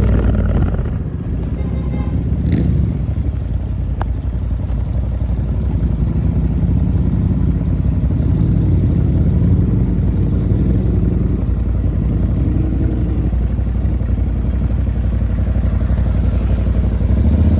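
Motorcycle running steadily on the move, a continuous low rumble of engine and riding noise.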